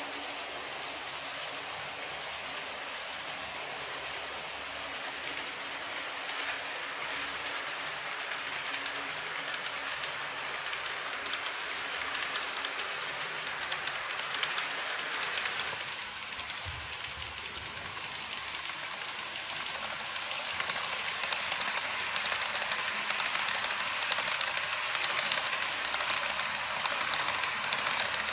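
Model train running on the layout's track with a high, rattling hiss that gets louder, turning into a quick, even clicking of wheels over rail joints in the last several seconds as it passes close.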